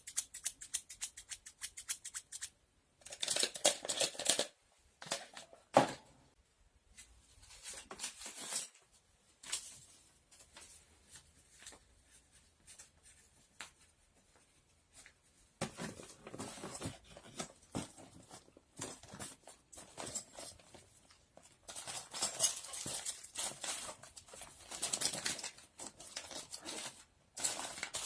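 Close-up handling sounds: a quick, even run of clicks, about six a second, for the first couple of seconds, then separate rustles and swishes of paper or packaging. There is one sharp knock about six seconds in, and longer stretches of rustling in the second half.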